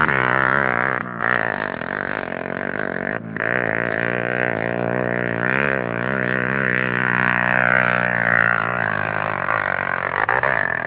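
Honda Tornado 250's single-cylinder four-stroke engine working hard up a steep dirt-trail climb, its pitch wavering up and down as the throttle is worked, with two brief dips near one second and three seconds in.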